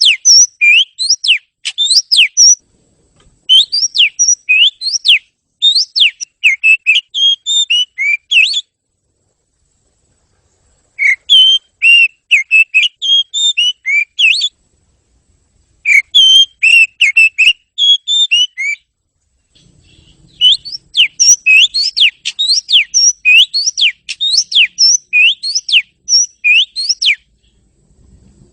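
Oriental magpie-robin (kacer) singing: rapid phrases of loud, rising whistled notes, broken by short pauses of a second or two.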